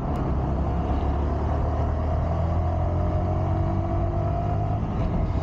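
Sport motorcycle engine running at cruising speed under wind noise, its note rising slowly over the first few seconds as the bike gathers speed.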